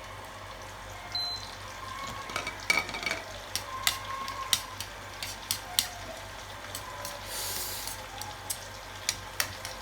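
Spoon stirring a dipping sauce in a bowl, with irregular sharp clinks against the bowl over a low steady hum.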